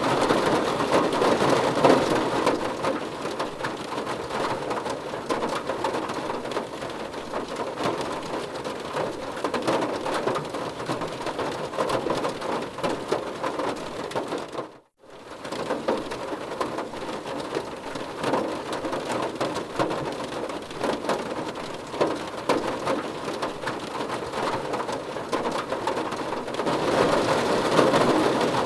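Heavy rain falling steadily on a surface, a dense patter of drops. It cuts out abruptly for a split second about halfway through, then carries on.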